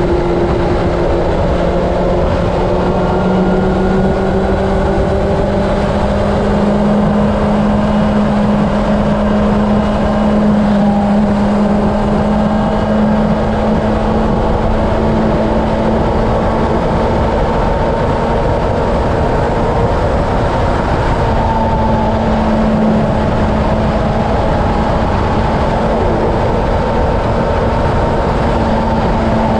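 Steady engine drone with a low tone that creeps slowly upward, under a constant rush of wind noise.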